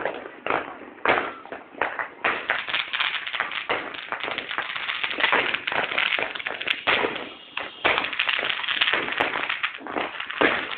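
Fireworks going off in a rapid, irregular string of cracks and pops, densest in the middle of the stretch.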